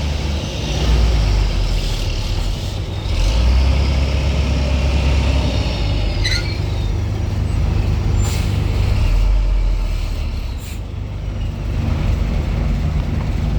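Heavy vehicles such as trucks and buses running with a steady deep engine drone, with a few short sharp sounds about six, eight and eleven seconds in.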